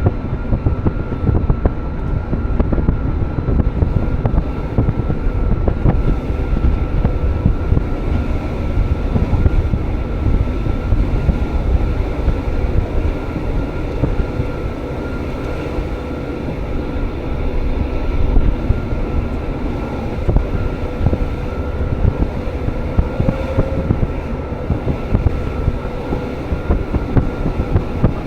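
Electric rack-railway train of the Jungfrau Railway running: a steady, dense rumble with a faint steady whine on top.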